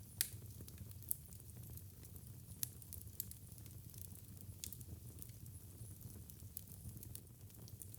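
Wood fire in a fireplace crackling and popping, with irregular sharp snaps over a low steady rumble of the flames.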